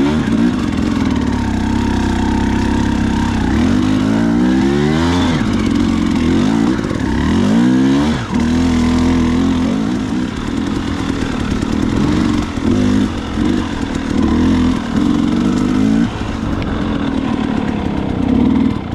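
Dirt bike engine being ridden in short throttle bursts. It revs up and down sharply several times, with steadier running between, then a run of quick on-off blips past the middle.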